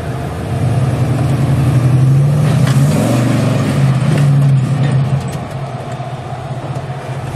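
Off-road 4x4 engine revving under load as it climbs, growing louder about half a second in and easing back around five seconds.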